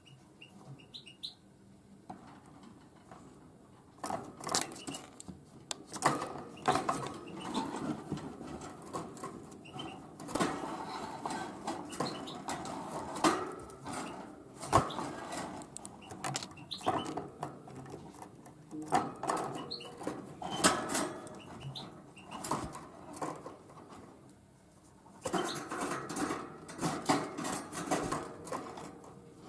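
Tit pecking at sunflower seeds: irregular runs of quick sharp taps and rustling that start about four seconds in, ease off briefly near the end, then pick up again. A few faint short chirps come at the very start.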